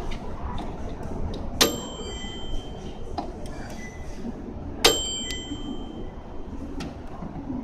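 Two sharp metallic clicks about three seconds apart, each leaving a brief thin ringing, typical of a microwave oven's door latch and spring, over steady store background noise.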